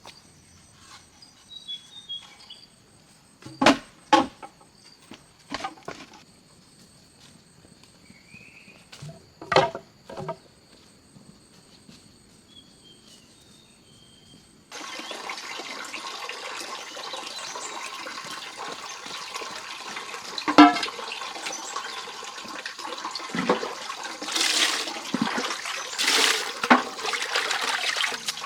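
Insects droning steadily, with a few sharp knocks and faint bird chirps. About halfway it switches abruptly to running, splashing water, with louder splashes near the end.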